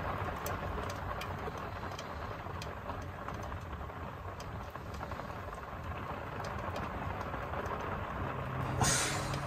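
Hard rain falling on a small wooden truck-camper cabin, heard from inside: an even hiss with scattered sharper drop ticks over a low steady rumble. Soft steady music tones come in near the end.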